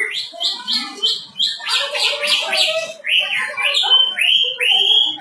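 A caged songbird singing loudly in a varied stream: quick repeated notes, then a harsh buzzy stretch, then a series of rising whistles.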